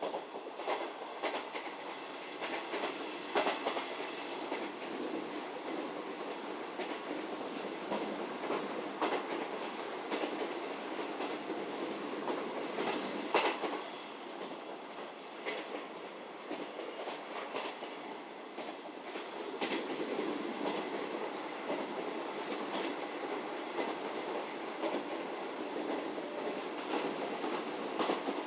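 JR Hokkaido 711 series electric multiple unit running, heard from inside the passenger car: a steady rumble from the running gear, with wheels clacking over rail joints now and then, the sharpest clack about halfway through.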